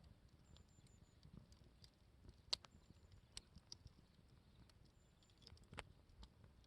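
Wood campfire crackling faintly, with scattered sharp pops, the loudest about two and a half seconds in and again near six seconds, over small irregular ticks.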